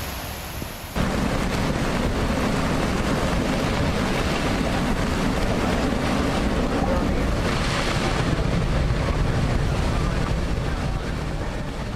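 A steady rushing noise that sets in suddenly about a second in and holds level.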